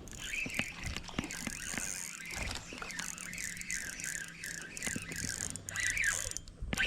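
Spinning fishing reel being cranked while a small smallmouth bass is reeled in, with rapid mechanical clicking from the reel.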